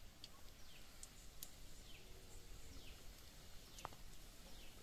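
Faint outdoor ambience with a bird calling repeatedly in short downward-sliding notes, about one a second, and a few light clicks.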